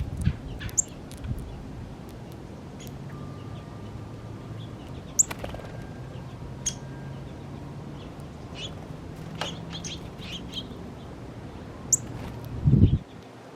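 Small songbirds chirping on and off, short high chirps spread through, over a steady low hum. A short low thump near the end is the loudest sound.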